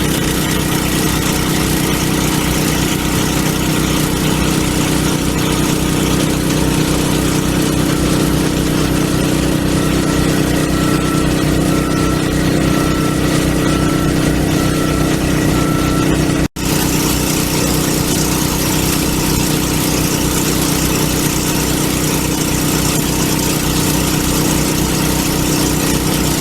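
Engine-driven 3-inch water pump running steadily at a constant speed while it dewaters the dam, with an even low pulse from the engine. The sound cuts out for an instant about two-thirds of the way through, then carries on unchanged.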